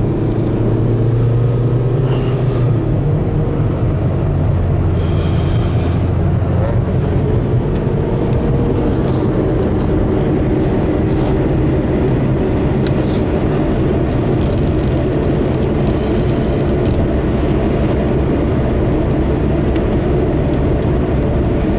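Car driving at highway speed, heard from inside the cabin: a steady engine and road drone with a few light clicks or rattles.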